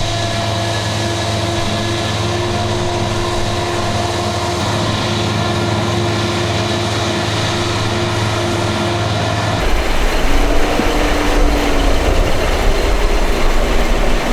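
Diesel engines of heavy forage-harvesting machinery running steadily under load. About ten seconds in, the sound changes abruptly to a louder, rougher rumble with a short whine.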